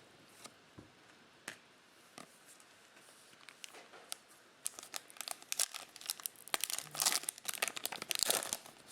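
A trading card pack's wrapper being torn open and crinkled by hand: a few faint isolated crackles at first, then dense crinkling from about halfway through.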